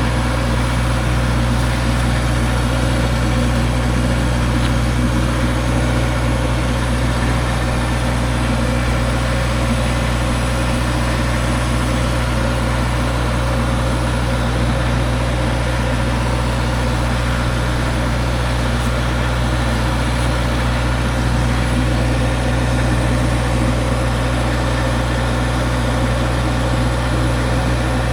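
An engine idling steadily with a deep, even hum and no change in speed.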